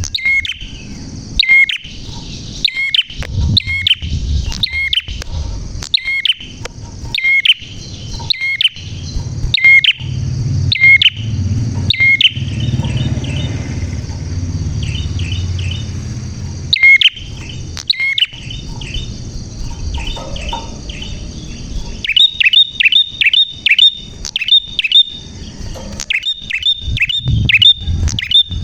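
Prenjak (prinia) singing: loud, sharp chirping calls repeated about once every 0.7 seconds, then sparser short chirps, then a fast rapid-fire chattering series in the last several seconds. A low rumble runs under the song near the middle.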